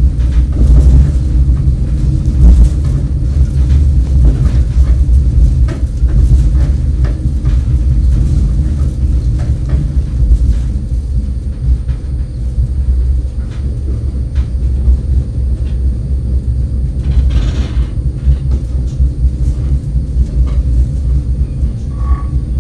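Passenger train running, heard from inside the carriage: a steady low rumble from the wheels and rails, with scattered clicks and knocks.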